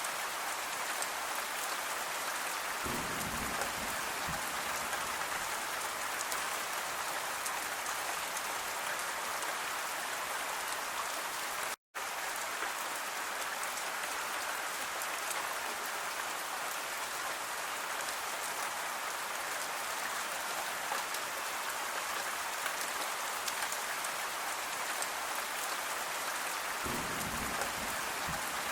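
Steady gentle rain falling on a surface, an even hiss with fine pattering drops. Just before the 12-second mark the sound cuts out completely for a split second and then resumes unchanged.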